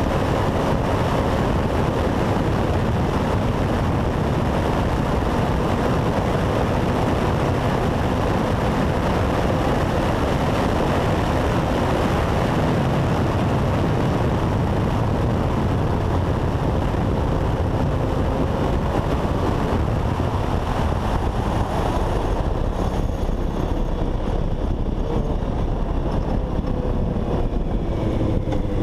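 Honda CBX 750 inline-four motorcycle running at steady road speed under heavy wind rush. The engine note eases lower near the end as the bike slows.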